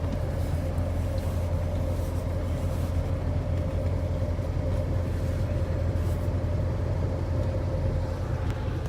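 Amphicar's rear-mounted Triumph four-cylinder engine running steadily while the car swims, a constant low drone with a steady whine above it.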